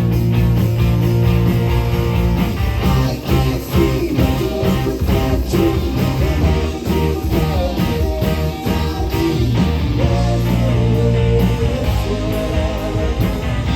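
Live rock band playing loud, guitar-led rock, with strummed chords and a steady beat through the middle.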